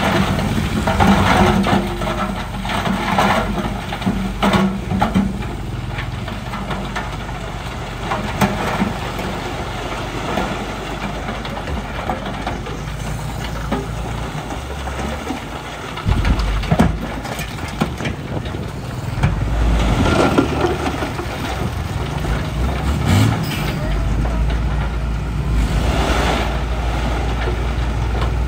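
Heavy diesel earthmoving machinery, a bulldozer and dump trucks, running with a steady low drone, broken by scattered knocks and rattles.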